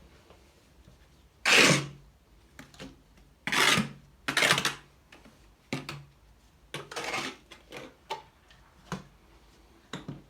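Notched spreader scraping tile adhesive over a surface in four short, loud strokes, with lighter clicks and taps in between. The excess adhesive is being worked and scraped off.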